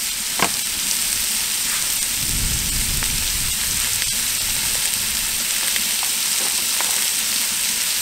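Diced root vegetables, onions and garlic sizzling in hot fat and meat juices in a cast-iron Dutch oven, browning: a steady frying hiss with a few small pops.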